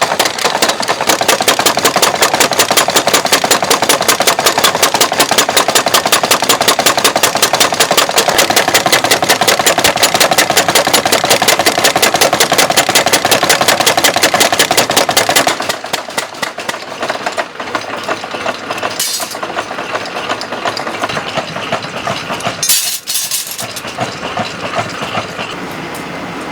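Mechanical power hammer pounding in a fast, steady rhythm of blows, stopping about two-thirds of the way through. After it comes quieter, irregular workshop clatter with two brief louder noises.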